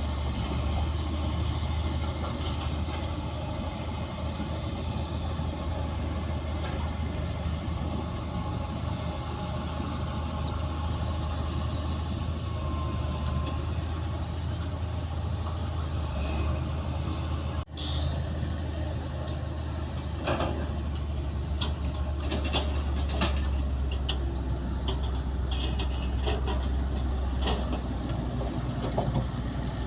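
Komatsu D60P bulldozer's diesel engine running steadily under work, with a brief cut about two-thirds of the way through, followed by a string of metallic clanks and knocks.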